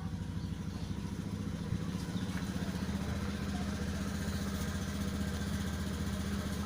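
A small engine running steadily at idle, a constant low hum with rapid even pulsing.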